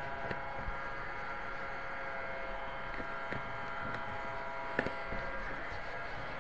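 A steady electrical or mechanical hum of several fixed pitches, with a few faint clicks.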